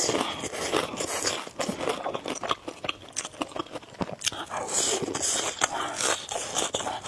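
Close-up mukbang eating sounds: noodles being slurped and chewed, with many short wet mouth clicks and smacks and a hissy slurp about five seconds in.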